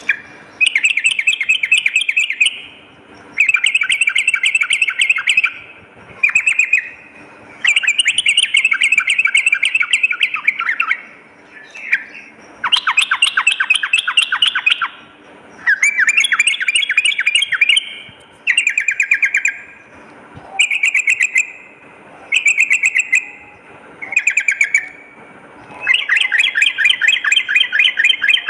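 Yellow-vented bulbul (trucukan) singing loud, bubbly, chattering phrases, about a dozen of them, each a second or two long with short pauses between.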